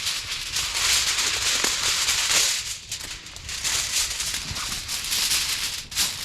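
Thick tin foil crinkling and rustling in irregular bursts as it is handled and folded around a food packet.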